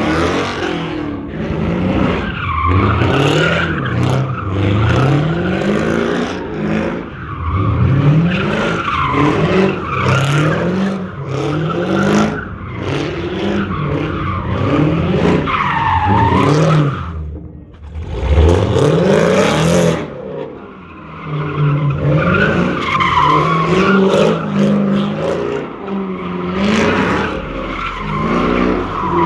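Car engines revving over and over, the pitch climbing and dropping about once a second, with a short lull about two-thirds of the way through.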